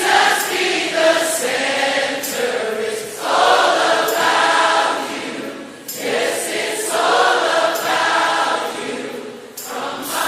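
A choir singing in long held phrases, with short breaks between phrases about every three seconds.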